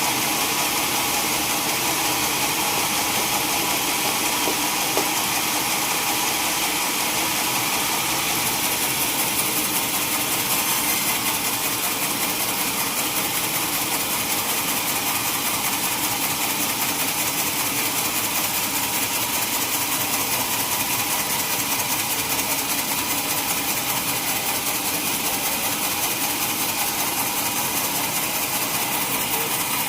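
Sawmill machinery running steadily: a constant mechanical drone, engine-like, with no start, stop or change in pitch.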